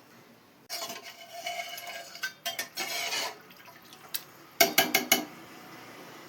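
A metal utensil scraping and stirring against a cooking pot for a couple of seconds, with a faint ringing note. Then, about a second later, four quick metallic clinks of a utensil against cookware.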